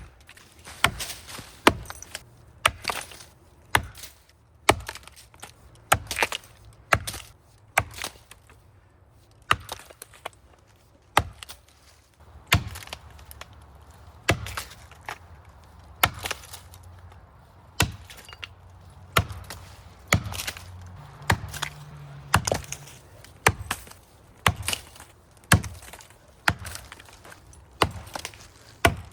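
Axe chopping into a hard maple trunk: a steady run of sharp strikes, about one a second, as chunks are taken out of the front of the felling cut.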